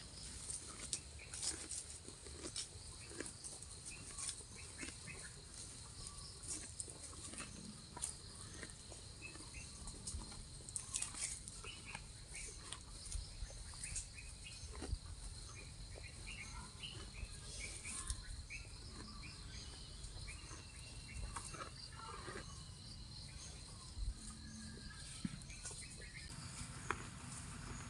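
A cow grazing: irregular crisp tearing and crunching of grass as it bites and chews. Insects chirr steadily behind it.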